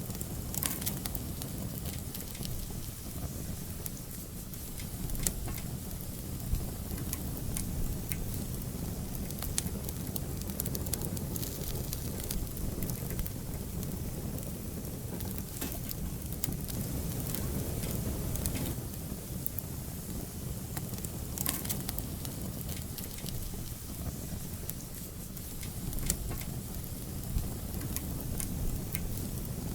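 Wood fire in an outdoor fireplace burning steadily, with irregular sharp crackles and pops over a low rumble of flames.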